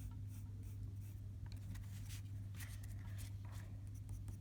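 Colored pencil scratching on paper in a quick, irregular series of short strokes, over a steady low hum.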